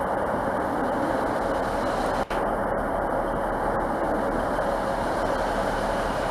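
Steady, even noise of a train running, with a brief dropout in the sound about two seconds in.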